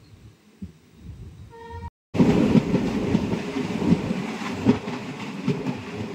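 Passenger express train running at speed, its wheels clacking rhythmically over the rail joints. The sound cuts out for a moment about two seconds in and comes back much louder.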